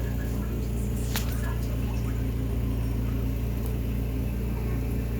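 Steady low machine hum at an even level, with a couple of faint light clicks, one about a second in.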